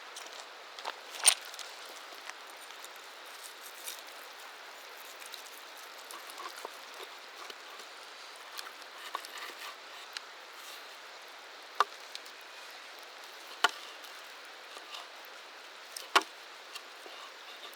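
A steady hiss with a few sharp knocks over it, the loudest about a second in and three more in the second half.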